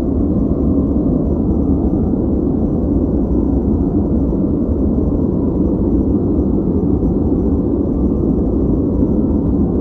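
Steady synthetic white-noise track for focus, played as a continuous even hiss. It is dark and muffled, with its weight low and little or no high hiss, and it does not change.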